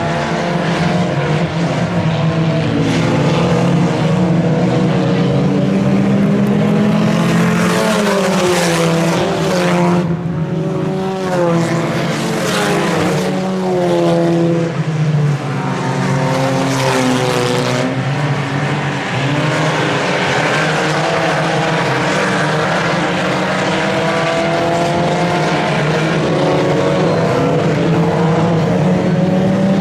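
A field of IMCA Sport Compact race cars running at speed on a dirt oval, their four-cylinder engines climbing and falling in pitch over and over as the cars lap past.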